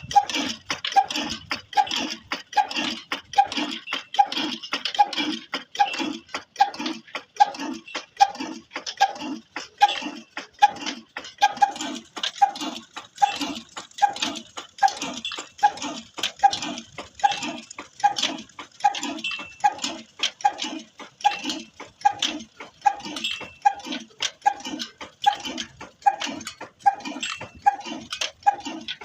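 Old Ruston stationary engine driving a tubewell pump, running slowly and steadily with an evenly spaced beat, a little under two a second.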